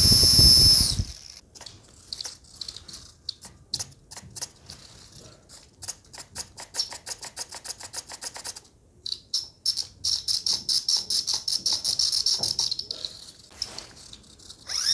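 Micro servos of a mini RC plane buzzing and ticking in quick, evenly spaced bursts as its control surfaces are worked from the transmitter, with a steady high buzz for a few seconds past the middle. A loud high whine ends about a second in.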